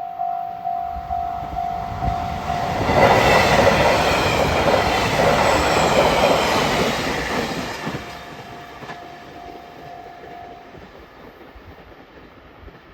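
Railway level-crossing warning bell ringing about twice a second. About three seconds in, a train passes the crossing close by with loud wheel-on-rail noise that lasts about five seconds. After the train has gone the bell rings on more faintly, then stops.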